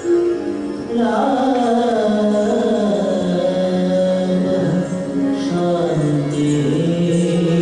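Devotional Indian vocal music: a voice singing long, bending melodic lines over a steady drone.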